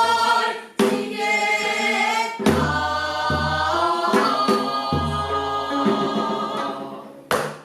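Several voices singing a newly composed pansori together, with sliding, held notes, accompanied by the buk barrel drum, whose deep strokes and sharp rim knocks punctuate the singing. The music fades near the end, and a single sharp knock sounds just before it stops.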